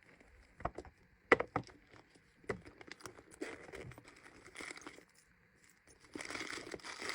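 Packaging crinkling and rustling as a small item is handled, with a few sharp clicks and taps in the first couple of seconds and the loudest crinkling near the end.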